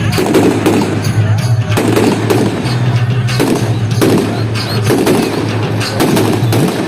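Fireworks going off, with many sharp bangs and crackles in quick, irregular succession, over loud music with a steady bass line.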